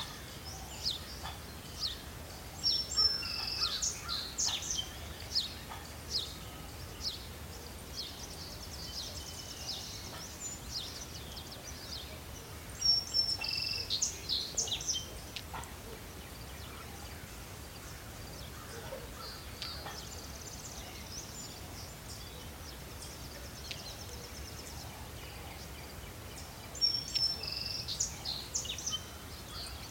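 Wild songbirds singing in the morning: bursts of quick high chirps and trills come in clusters a few seconds in, around halfway and near the end, with buzzy trills between them. A steady low rumble of outdoor background noise runs beneath.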